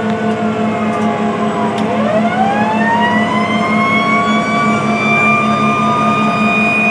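Fire engine's siren winding down to a low pitch, then winding back up over a few seconds and holding a steady high wail. The truck's engine drones steadily underneath.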